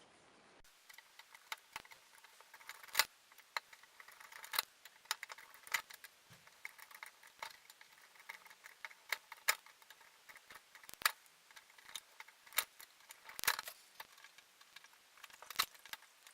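Irregular metallic clicks and clinks of tools and small metal parts being handled while an old scale is taken apart, with a few sharper knocks among lighter ticks.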